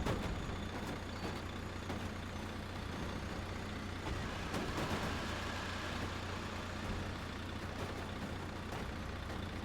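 A steady low engine hum, with a few faint clicks and a broader noisy swell about four to five seconds in.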